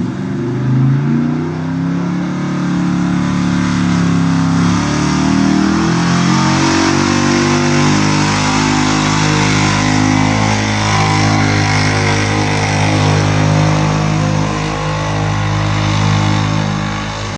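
Engine of a truck or tractor making a pull, running loud and hard under load. Its pitch wavers over the first few seconds, then holds steady until it cuts off suddenly.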